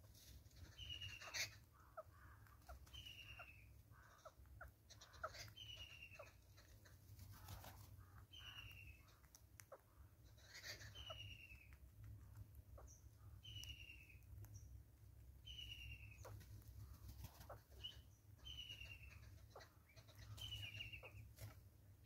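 Faint birdsong: one short, falling call repeated about every second and a half, with scattered light taps and clicks that fit a southern red-billed hornbill's bill picking seed off a tree stump.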